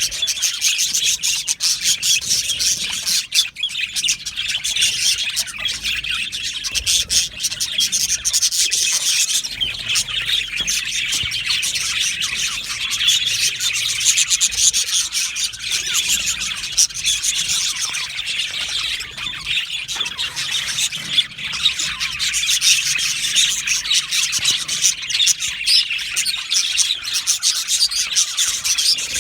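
A colony of budgerigars chattering and chirping, many birds at once in a dense, unbroken warble of quick high chirps.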